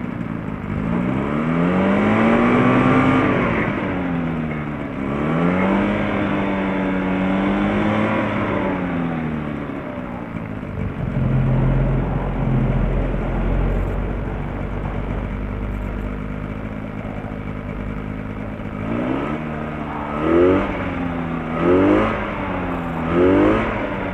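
Light aircraft's piston engine being run up on the ground: its pitch rises and falls twice, settles to a lower steady run, then climbs in three quick throttle blips near the end. It is slow to pick up revs, which sounds to the crew like a slightly rich mixture from the winter carburettor jets.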